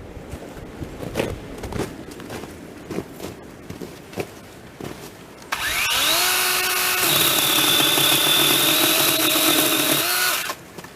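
A few scattered knocks and clicks, then about halfway through a chainsaw starts up, its pitch rising quickly to a steady high-speed run that holds for about five seconds before it winds down and stops near the end.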